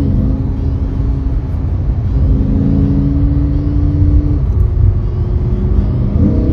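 Sports car engine running under way with a steady low rumble, its pitch starting to rise near the end as it accelerates.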